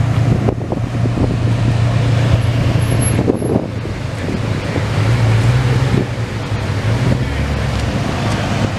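Car engine running at idle with a deep steady hum that rises a little in pitch about halfway through, with wind noise on the microphone.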